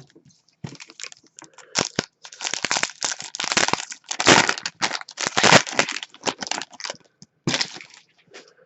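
Foil wrapper of a hockey card pack being torn open and crumpled, an irregular run of loud crinkling and crackling that fades near the end.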